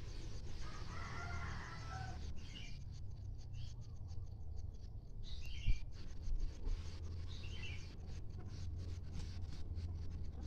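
Free-range village chickens (ayam kampung) calling, with a rooster's crow about a second in and shorter, fainter calls later, over a steady low rumble.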